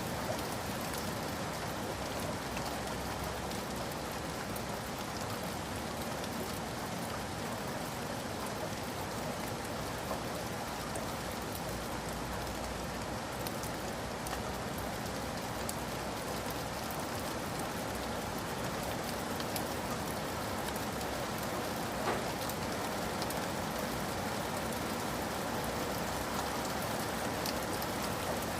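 Steady rain falling and striking a surface, with one louder tap about three-quarters of the way through.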